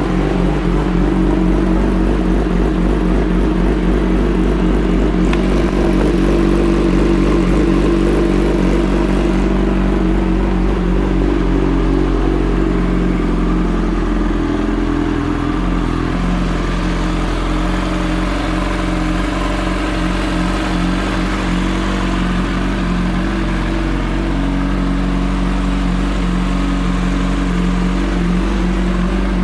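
2006 Kawasaki ZX-10R's inline-four engine running steadily through an aftermarket Muzzy exhaust.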